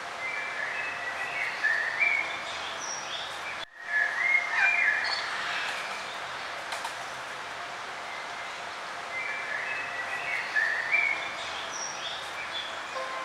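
Songbirds singing in warbling phrases over a steady hiss of outdoor ambience, busiest in the first few seconds and again past the middle. The whole sound drops out for a split second about four seconds in.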